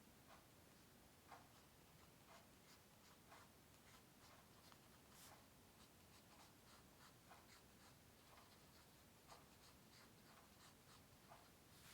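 Faint scratching of a drawing pencil on paper: short, separate strokes, about one or two a second, with pauses between them.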